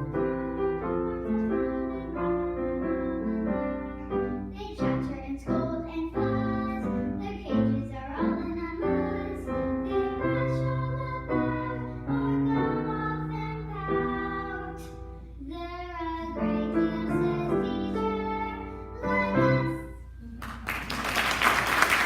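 Two children singing a duet with piano accompaniment. The song ends near the end, and applause breaks out right after it.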